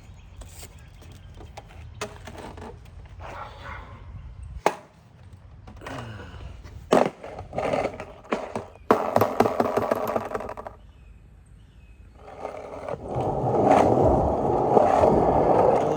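Skateboard wheels rolling on concrete, with sharp clacks from the board. A short roll comes a little past halfway, and a longer, louder roll follows near the end.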